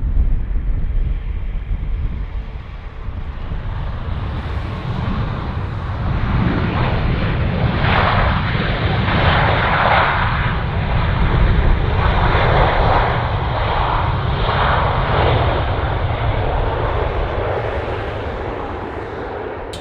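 Jet airliner engines running close by: a steady low rumble throughout, with a louder roar that swells in several waves through the middle and then eases off near the end.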